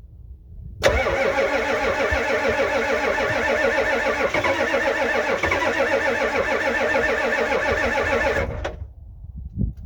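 Starter cranking a 6.9 L IDI V8 diesel over in a cold start without working glow plugs, on starting fluid sprayed into the intake. The cranking begins about a second in, goes on steadily with a rhythmic wobble in pitch for about seven and a half seconds, then stops abruptly.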